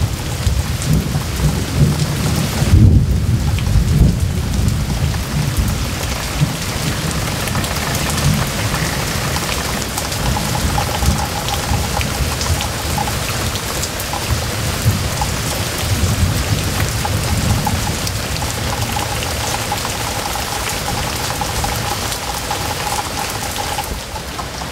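Heavy rain pouring steadily onto foliage and the ground, with a low rumble of thunder that is strongest a few seconds in.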